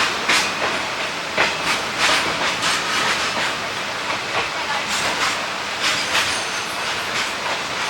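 ICF passenger coach running on the track: a steady rolling rumble and hiss, with repeated short clacks of the wheels over the rails coming at uneven intervals.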